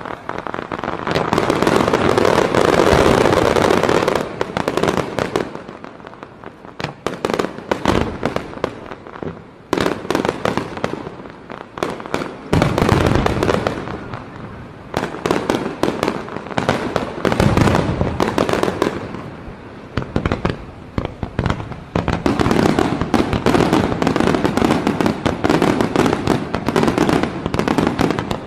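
A fireworks display: dense volleys of bangs and crackling from aerial fireworks going off, in waves with brief lulls between them.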